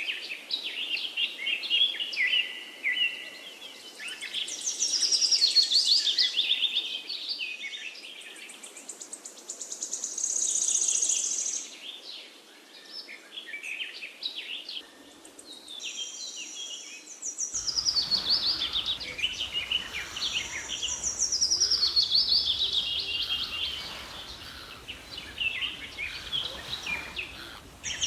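Several birds chirping and singing together, with rapid trills and runs of notes that step down in pitch. A low background hum comes in about two-thirds of the way through.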